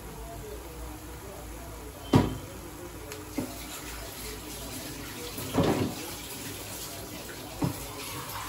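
Moringa leaves and onions frying in an aluminium kadai, a steady sizzling hiss. It is broken by a few short sharp knocks, the loudest about two seconds in.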